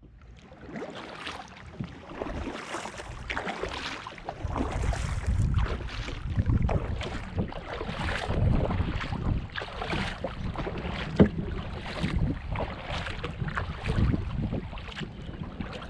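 Kayak paddle strokes dipping and splashing in the water, about one stroke a second, with wind rumbling on the microphone from about four seconds in.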